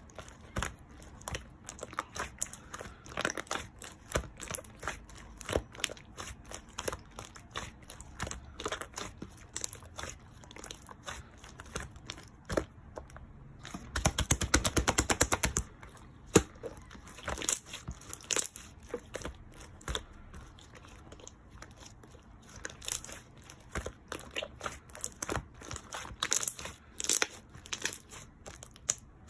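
Slime being squeezed and poked by hand, giving irregular sharp clicks and crackles as small air pockets pop. About halfway through, a rapid run of louder clicks lasts about a second and a half.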